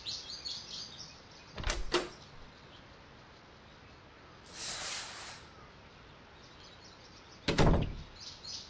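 A glass-panelled house door opening and shutting: two sharp clicks about two seconds in, a brief hiss around five seconds, and a heavy thump near seven and a half seconds, the loudest sound. Birds chirp faintly near the start and end.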